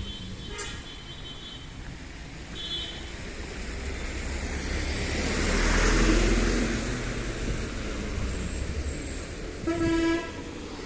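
A road vehicle approaches and passes, its engine and tyre noise swelling to a peak about six seconds in and then fading. Vehicle horns toot briefly near the start and again a few seconds later, and a louder half-second honk sounds near the end.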